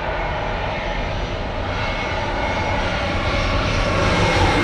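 Jet airliner's engines running close by, a dense rumble with a faint steady whine, growing slowly louder as the aircraft nears.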